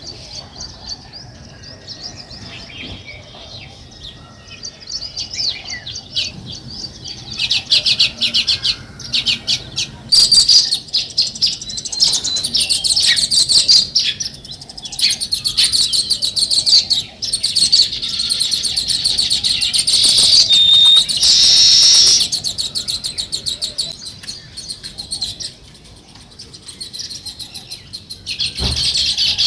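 A group of small songbirds chirping and chattering in fast runs of repeated high notes. The chorus is sparse at first, grows busy and loud after several seconds, eases off briefly and swells again near the end.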